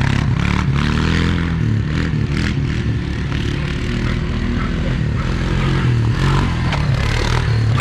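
Farm quad bike engine running and revving up and down, with scattered clattering knocks.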